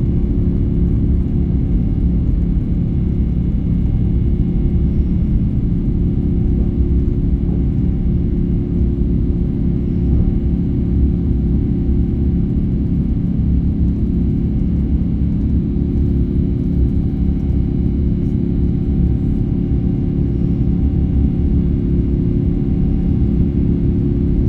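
Airbus A350's Rolls-Royce Trent XWB engines running steadily during the take-off climb: an even, low rumble with a steady hum.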